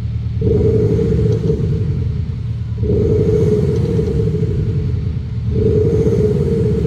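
BMW X4's Xhaust active sound exhaust, a speaker-based system, putting out a deep V8-style exhaust rumble that swells louder three times.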